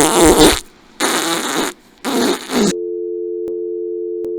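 A loud wavering noise cuts off, then two short noisy blasts, and a bit under three seconds in a steady telephone dial tone starts and holds, broken by two faint clicks: the line has dropped to dial tone after the call ended.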